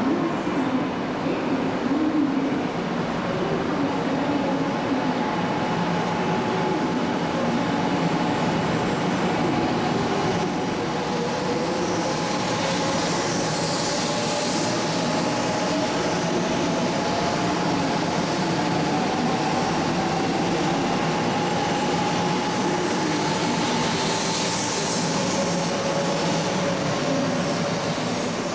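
500 series Shinkansen train running on the rails: a steady rumble with a whine that rises in pitch through the middle as the train picks up speed, and two brief hissing swells.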